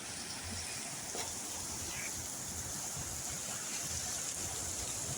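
Heavy rain falling steadily, a continuous hiss with a few scattered drop ticks, the hiss growing a little brighter about a second in.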